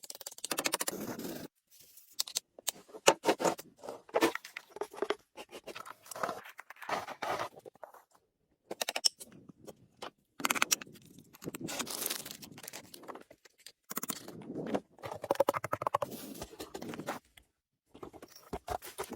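Snow being dug and scraped: many short, irregular scraping and crunching strokes in clusters, broken by a few brief dead-silent gaps.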